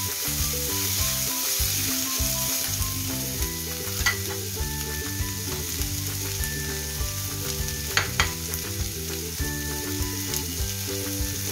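Onions, garlic and ginger frying in oil in a metal kadai on a low flame, sizzling steadily as a metal spatula stirs them. Sharp clinks of the spatula against the pan come once about four seconds in and twice close together around eight seconds.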